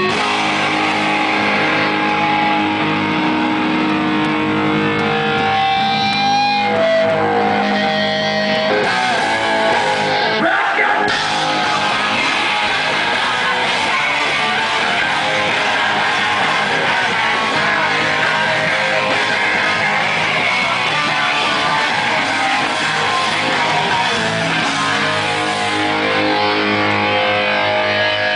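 A hardcore punk band playing live through loud electric guitars. Held, ringing guitar notes, one bending in pitch, fill the first several seconds, then the full band comes in about nine seconds in and plays on densely.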